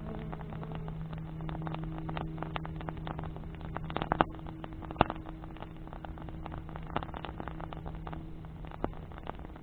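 Wood fire crackling with many irregular snaps and pops, two louder pops about four and five seconds in. Under it a steady low engine hum runs and fades out near the end.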